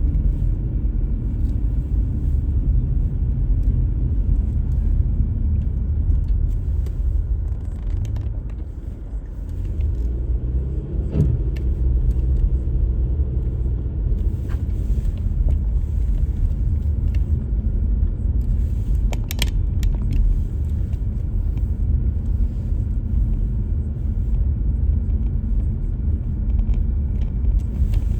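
A car driving, its engine and tyres making a steady low rumble. About ten seconds in it eases off briefly, then the engine pitch rises as it picks up speed.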